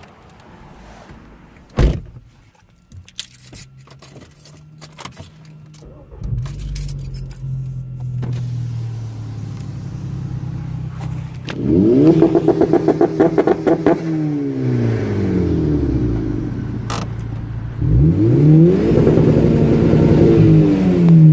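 A sharp knock and some clicks, then a tuned turbocharged four-cylinder VW GTI with a catless downpipe and Magnaflow cat-back exhaust starts and idles. It is revved hard twice, each rev rising and falling in pitch, the second near the end.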